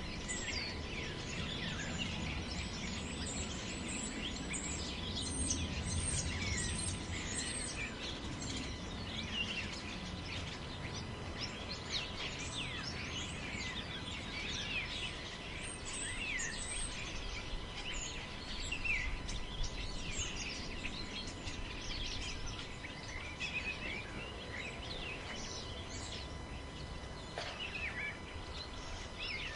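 Many small birds chirping and calling, a dense run of short quick notes throughout, over a steady low rumble of wind in a forest.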